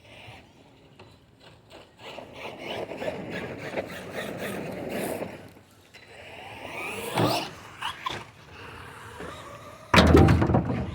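Radio-controlled monster truck driving over rough ground with scattered knocks and rattles, its motor whining up sharply in pitch about seven seconds in. A sudden loud low rumble comes near the end.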